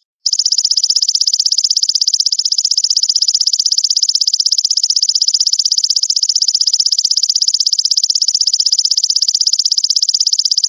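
Grasshopper call: a loud, high-pitched buzz made of fast, even pulses that runs on without a pause, broken only by a short gap right at the start.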